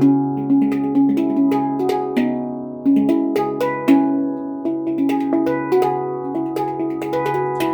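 Celestial Sound handpan tuned to C# Celtic minor, played by hand: a flowing run of struck notes, about two to three a second, each ringing and fading over a sustained low ding note.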